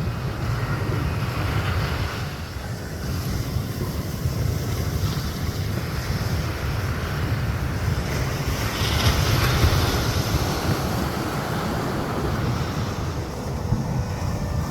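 Wind buffeting the microphone with a low rumble, over the steady wash of surf breaking on the beach, swelling about two-thirds of the way through.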